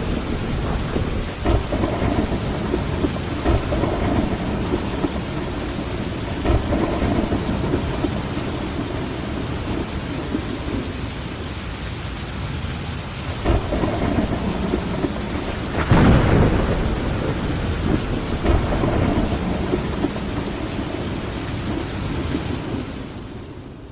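Steady rain on a window glass with rolling thunder rumbling underneath. There is a sharp thunder crack about thirteen seconds in and a louder one about sixteen seconds in. The whole sound fades out near the end.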